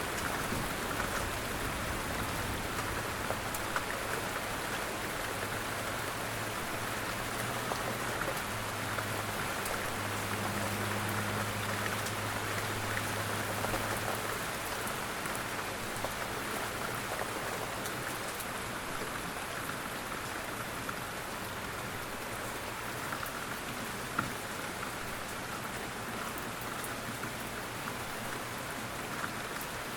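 Steady rain falling, an even hiss with scattered drop ticks and one sharper tick about two-thirds of the way through. A low hum comes and goes underneath during the first half.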